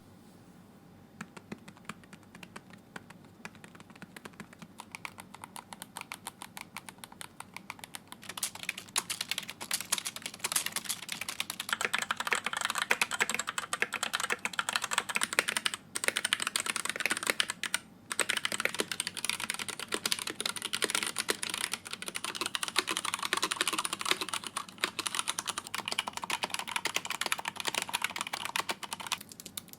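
Fast typing on a series of computer keyboards, a steady patter of key clicks. The clicks are faint for the first several seconds, then turn louder and brighter, and the tone shifts a few times with short breaks, as one keyboard gives way to the next.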